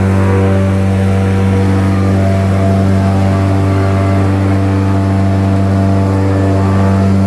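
Airboat engine and propeller running steadily at speed, a loud, even drone.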